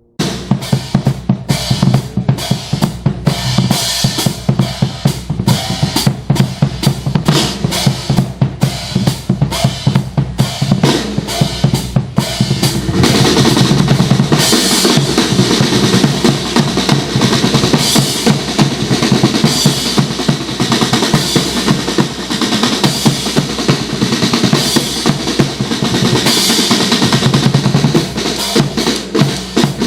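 Drums playing snare and bass drum strikes in a fast, steady beat, becoming fuller and denser about thirteen seconds in.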